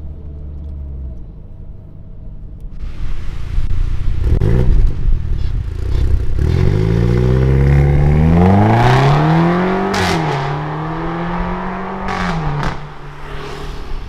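Mercedes C-Class coupe's engine through an ARMYTRIX valvetronic aftermarket exhaust, idling, then revved: a short blip about four seconds in, then a longer rise in revs that is held and falls back twice. There are a few sharp cracks from the exhaust as the revs drop.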